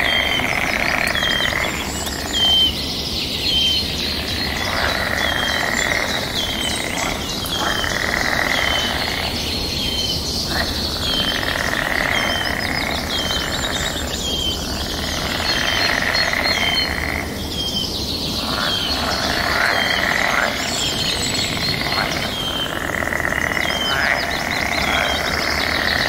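Birds chirping: one bird repeats a short, hooked chirp about once a second over a steady chorus of calls that swells and fades every few seconds.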